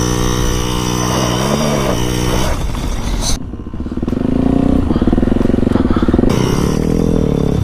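Dirt bike engine running at steady low revs, with a short rev up and back down about a second and a half in. Partway through the sound turns duller and the engine note wavers unevenly, rising and falling again near the end.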